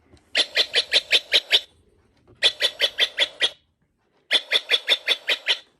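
Mark Feldstein & Associates bird clock playing its recorded Steller's jay call for the 8 o'clock hour: three runs of rapid repeated notes, each about a second long, with short pauses between.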